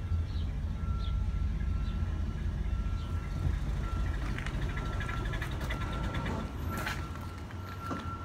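1962 Eureka hearse's engine idling as a low steady rumble, with a thin high beep sounding over it and breaking off briefly every second or so.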